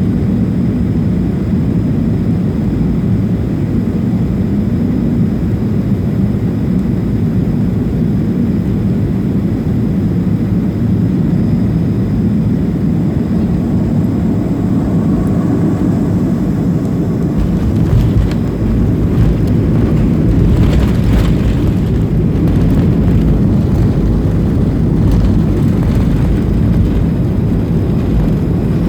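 Steady rumble of a Boeing 737-500's jet engines and airflow heard inside the cabin as it comes in to land. About 18 seconds in there is a bump, and a deeper, louder rumble with rattling follows: the aircraft touching down and rolling out on the runway.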